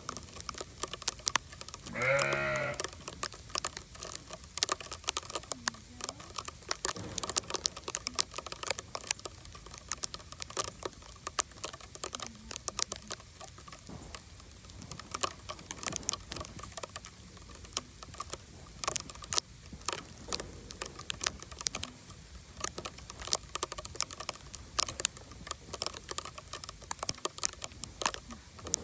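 Sleet pellets ticking irregularly and fast, a dense patter of small sharp clicks, with one bleat about two seconds in.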